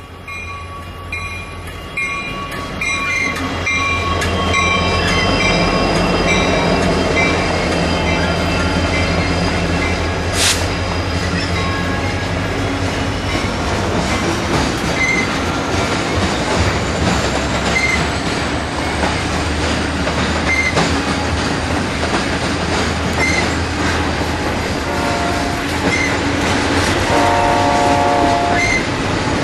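A freight train hauled by diesel-electric locomotives rolls past, the engines running with a steady low drone over the rumble and clatter of the wheels. The sound grows louder over the first few seconds. Near the end the locomotive's horn sounds a chord in short blasts.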